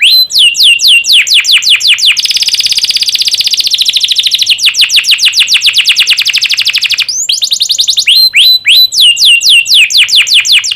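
Domestic canary singing loudly in fast trills of repeated down-slurred notes, with a very rapid rolling trill in the middle and a brief break about seven seconds in.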